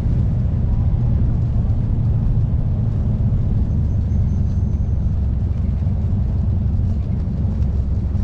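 Vehicle engine running steadily under way, a loud even low drone.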